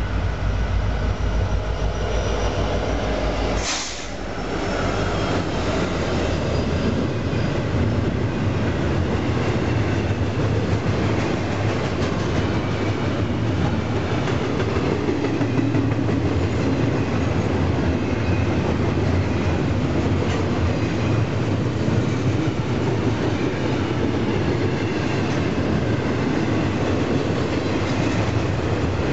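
Union Pacific diesel freight locomotives pass with a low engine rumble that drops away about four seconds in. Double-stack intermodal container cars then roll by in a steady rumble of steel wheels on the rails.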